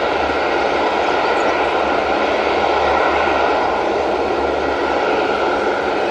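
KC-130 transport aircraft's turboprop engines running with a loud, steady drone and a few held tones, unchanging throughout.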